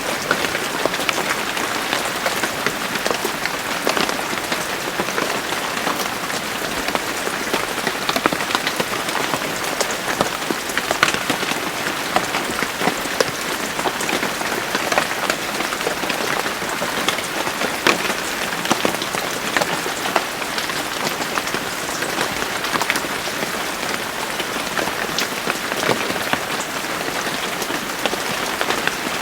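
Steady rain falling on a surface, a dense patter of individual drops over an even hiss.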